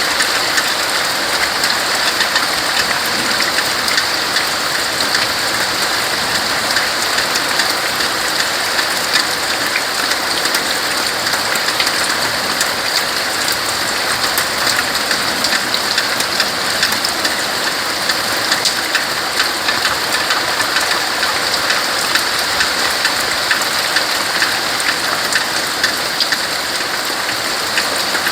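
Steady rain falling on tree leaves: an even hiss dotted with many small drop patters.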